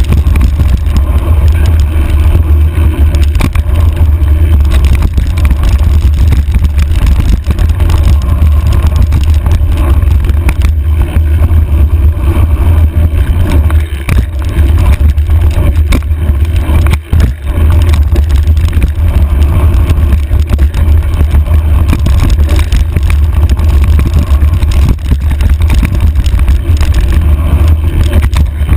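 Loud, steady wind rumble buffeting the microphone of a handlebar-mounted camera on a moving mountain bike, mixed with rattle and tyre noise from the rough dirt trail.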